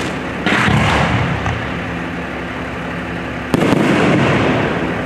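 Fireworks shells bursting in a public display: two sharp booms about three seconds apart, one about half a second in and one near three and a half seconds. Each is followed by about a second of crackle and rumble.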